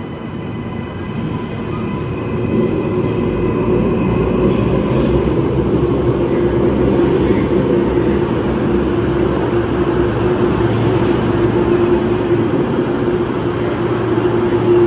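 Queensland Rail electric suburban train moving at a station platform, growing louder over the first few seconds and then running steadily, with a steady whine over the rumble of the wheels.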